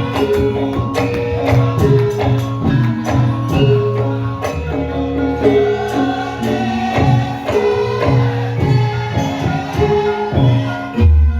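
Javanese gamelan music for a lengger dance: pitched metal percussion playing repeated notes over steady drum strokes, with a deep low stroke near the end.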